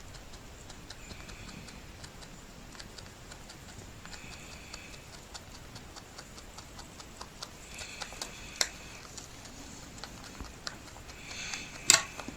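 Rabbit making rapid, irregular small clicking sounds, with a few brief faint scratchy noises, a sharper click about eight and a half seconds in and a louder one near the end.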